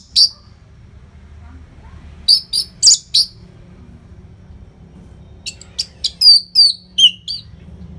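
Orange-headed thrush singing in short bursts of sharp, high notes: a group of four about two seconds in, then a longer run from about five and a half seconds in whose last notes fall in pitch.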